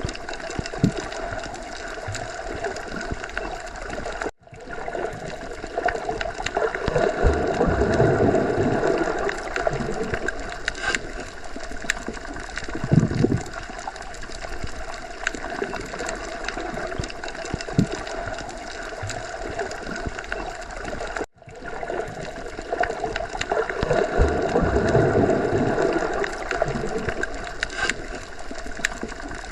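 Underwater ocean ambience: a steady rushing, gurgling water noise with slow swells. It cuts out for an instant twice, about seventeen seconds apart.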